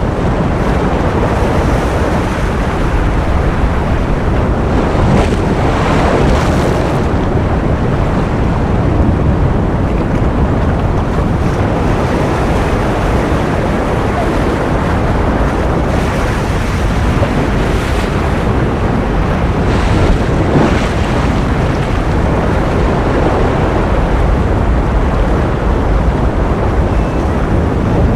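Steady ocean surf noise, a dense continuous wash of waves with gentle swells every several seconds.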